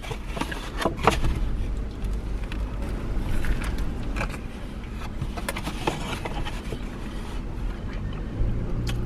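A man biting into a burger and chewing with his mouth full: soft crunches and wet mouth clicks over a steady low rumble, with a low hum near the end.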